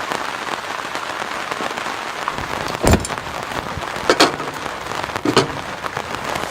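Heavy rain falling steadily, with three sharp knocks in the second half, the last two with a short ring.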